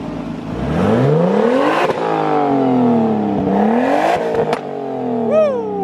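Car engine revved through a 'fart can' exhaust, a large-bore tuner muffler tip. The pitch climbs for over a second, drops back, gets one shorter blip about four seconds in, then falls away.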